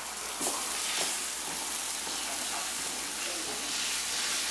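Liquid egg whites and lean ground beef with peppers frying on a countertop griddle: a steady sizzling hiss, with a couple of faint knocks in the first second.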